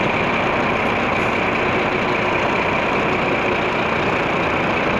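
Scania truck's diesel engine running steadily as the truck is driven off slowly.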